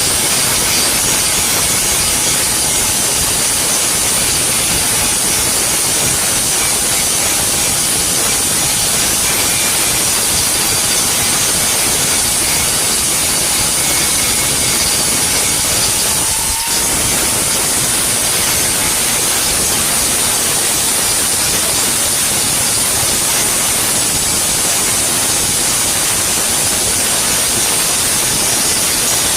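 Electric arc welding: the steady, loud hiss and crackle of the welding arc, broken off for a moment about halfway through.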